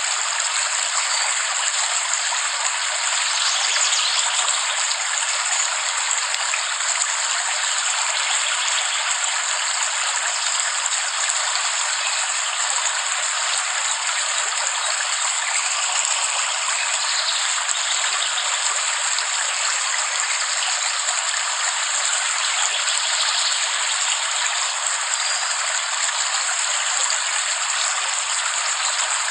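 Steady rain falling hard: an even, unbroken hiss with no low rumble.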